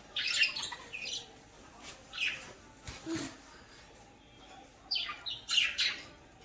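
Budgies chirping in short, scratchy calls: a cluster just after the start, single calls around two and three seconds in, and a louder run of chirps near the end.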